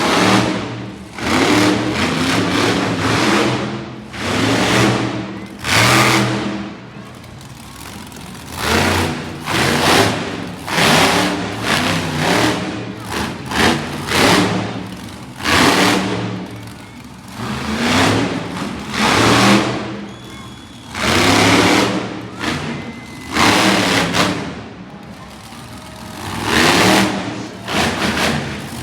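Monster truck engine revving hard in repeated bursts, each a second or two long and coming roughly every two seconds, with the pitch rising and falling in each.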